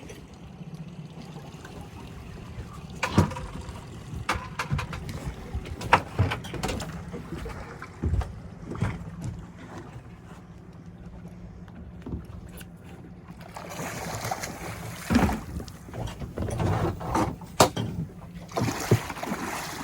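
Boat engine idling with a steady low hum, with scattered sharp knocks and clicks on the boat, and bursts of rushing, splashy noise over the last few seconds.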